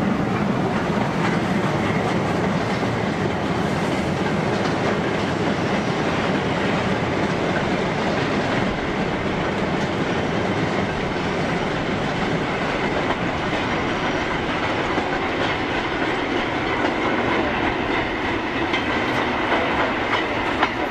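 Goods train of steel open mineral wagons rumbling and clattering past over the rail joints, a loud, steady, unbroken running noise.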